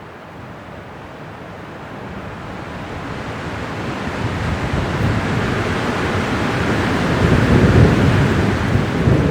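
Winter wind blowing, a steady rushing noise that builds into a strong gust over several seconds, peaking near the end, then easing slightly.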